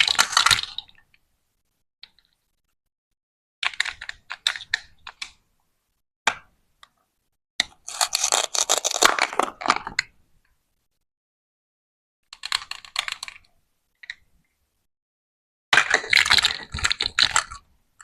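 Plastic toy fruit and vegetables being cut: five bursts of crackling, clattering plastic, each a second or two long, with silence between them.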